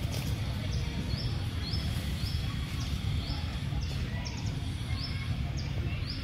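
A bird repeating a short, high chirp about twice a second, steady and regular, over a constant low rumble.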